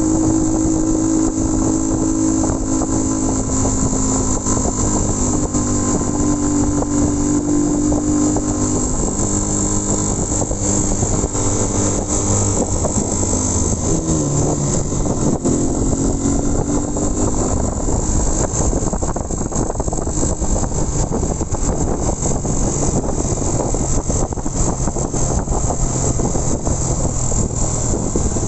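Motorcycle engine running at road speed with wind rushing past; the engine note drops about halfway through and then runs steady at a lower pitch.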